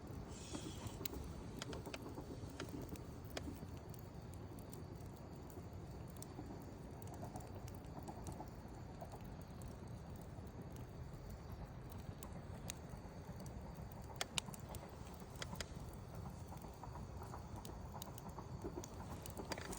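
Wood campfire burning: a steady low rumble of the flames with scattered sharp crackles and pops, one louder pop about two-thirds of the way through.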